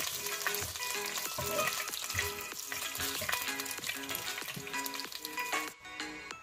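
Food frying in hot oil in a pan, a dense crackling sizzle that cuts off suddenly near the end.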